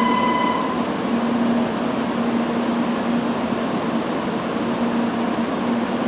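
700 Series Shinkansen train standing at the platform, its onboard equipment giving a steady hum over an even rushing noise. A high steady electronic tone stops within the first second.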